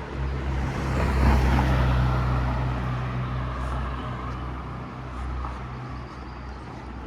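A car passing close by: engine hum and tyre noise swell to a peak about a second in, then fade slowly.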